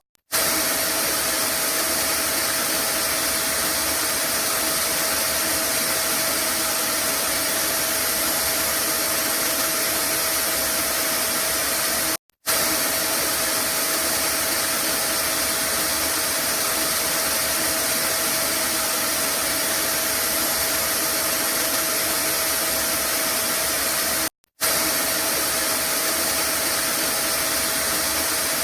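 Vacuum cleaner running steadily: a constant rush of air with a steady whine in it. The sound drops out for a split second three times, about twelve seconds apart, where a looped recording restarts.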